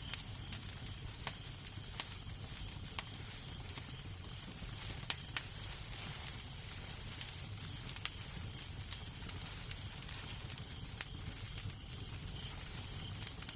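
Wood fire burning in a fireplace: irregular sharp crackles and pops, about one a second, over a steady hiss and low rumble.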